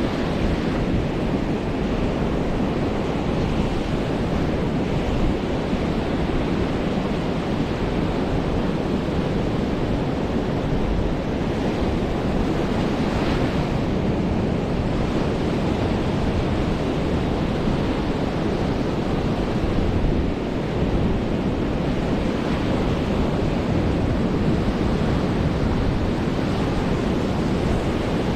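Ocean surf breaking and washing up a beach in a steady continuous rush, with wind rumbling on the microphone.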